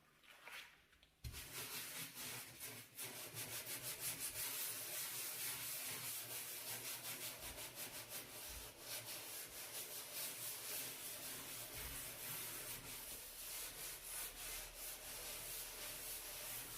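A brush scrubbing a dirty stove, grime rubbed off in quick, scratchy back-and-forth strokes that start about a second in and keep going steadily.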